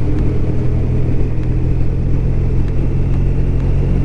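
BMW R1200RT's flat-twin boxer engine running at a steady cruise, under road and wind noise.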